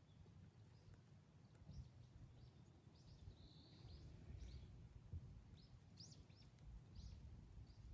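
Faint outdoor ambience: small birds chirping with many short, high calls and one brief held note, over a low steady rumble.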